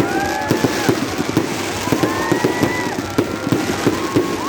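Fireworks display: a dense run of bangs and crackles, with several whistles gliding up and down in pitch over them.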